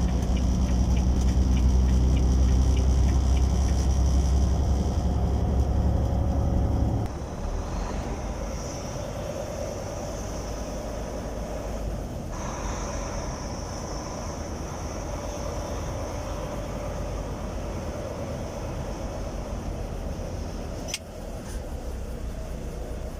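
Semi truck's diesel engine and road rumble, loud for the first several seconds, then dropping sharply about seven seconds in to a quieter, steady running.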